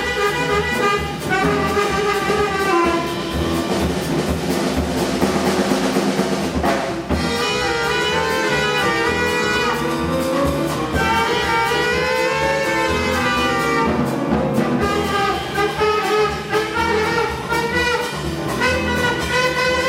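A jazz chorus singing in close harmony, backed by a small band of piano, saxophone, double bass and drums.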